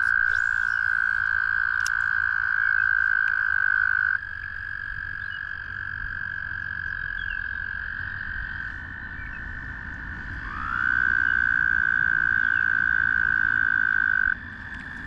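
American toads trilling: long, steady, musical trills from two toads. The nearer, louder one sings for about four seconds, stops, and starts again for another four seconds about eleven seconds in, while a second, slightly higher trill from another toad carries on without a break.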